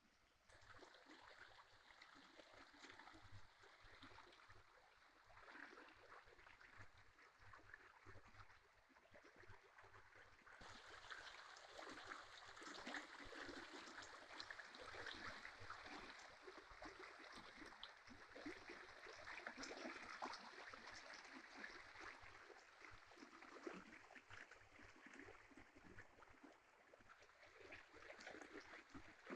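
A small stream babbling and gurgling faintly, a little louder and brighter from about ten seconds in.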